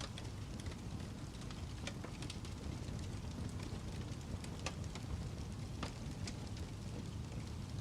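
Fireplace fire crackling: scattered sharp pops and snaps, a few each second, over a steady low rumble.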